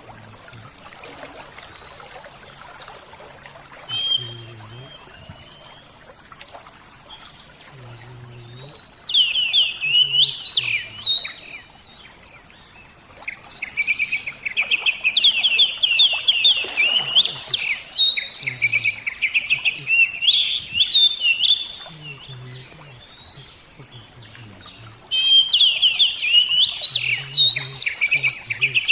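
Oriental magpie-robin (kacer) singing in loud stretches of rapid, varied phrases, with short pauses between them, over a faint background of trickling water.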